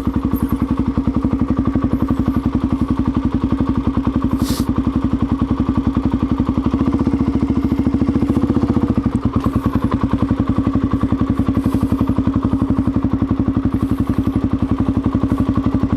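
Suzuki DR-Z400's single-cylinder four-stroke engine idling steadily, with an even, regular beat of firing pulses.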